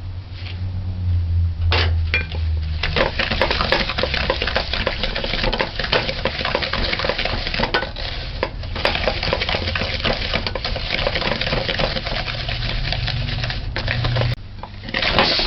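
Butter and sugar being creamed by hand, a spoon beating and scraping rapidly against the mixing bowl.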